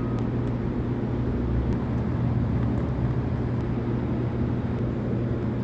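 Vacuum truck running steadily, a constant low mechanical hum.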